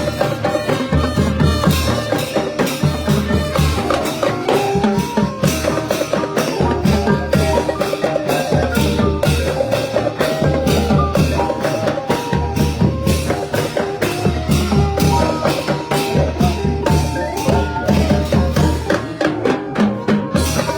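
Thai trae wong brass band playing procession music: horn melody over drums keeping a steady beat.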